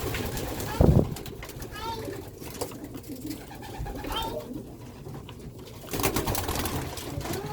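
Pigeons cooing. A loud low thump comes about a second in, and a short burst of noise near the end.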